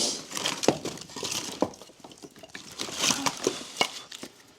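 Rummaging among wood and clutter: scattered light knocks, clinks and rustling as pieces are moved and handled.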